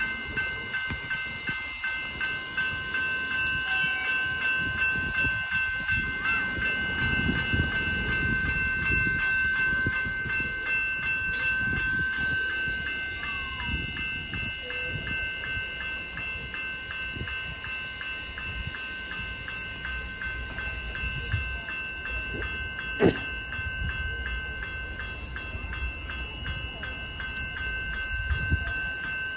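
Level crossing bell ringing continuously in fast, even strokes as the crossing activates, with a train rumbling through the crossing, loudest between about 7 and 14 seconds in. A single sharp click about 23 seconds in.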